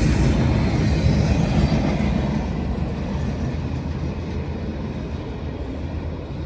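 Freight train rolling past on the rails, the cars and wheels making a steady rumble that slowly fades.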